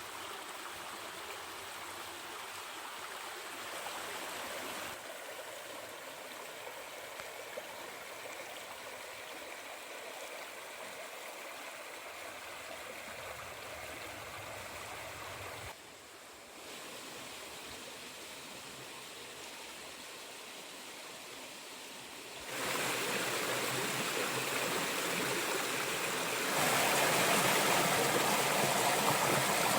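Steady splashing and rushing of a small, low-flow waterfall. It jumps abruptly louder twice in the last third, loudest near the end.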